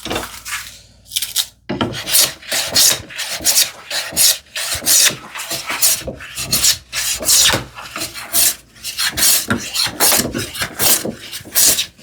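Hand plane taking quick, short strokes along a wooden strip, about two a second: light final passes to bring the stock exactly to its gauge line.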